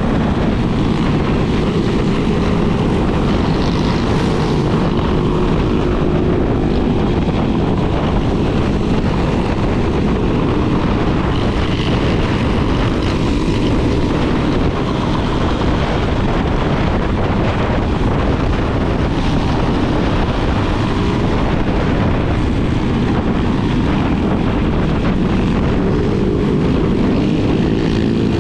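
Yamaha Lander 250 single-cylinder motorcycle engine running steadily under way, nearly buried in heavy wind rumble on the microphone. Its pitch rises near the end as it accelerates.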